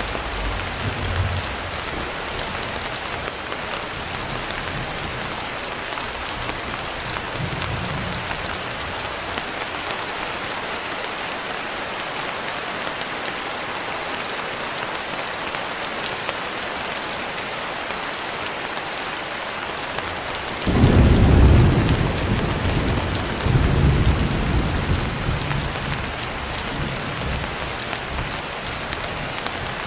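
Steady rain falling, with the tail of a low thunder rumble fading at the start. About two-thirds of the way in, thunder breaks suddenly and rolls on for several seconds, swelling once more before it dies away.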